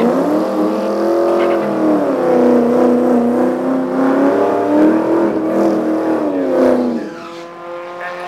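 Honda Civic Si's K20 four-cylinder launching off a drag strip start line at full throttle, revving up and dropping in pitch at each upshift about every two seconds as it pulls away down the track. Near the end it fades and a steadier engine note from another car near the line takes over.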